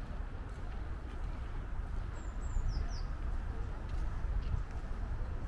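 A bird calls once, a quick group of high, falling chirp notes about two and a half seconds in. Beneath it runs a steady low rumble of outdoor background noise.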